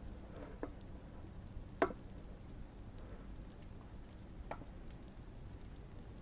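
Fireplace crackling softly, a steady scatter of small crackles, with three louder knocks or pops; the loudest comes about two seconds in.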